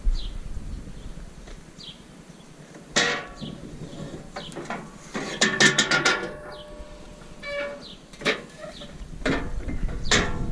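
Metal knocks and clanks from aluminium motorcycle ramp sections being moved and lined up, some with a short ring: one clank about three seconds in, a quick run of knocks around the middle, and single knocks later.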